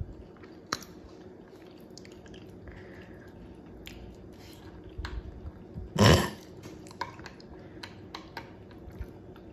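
A person chewing a mouthful of omelette with crunched Cheetos and bacon in it: small wet mouth clicks, with one louder noise about six seconds in, over a faint steady hum.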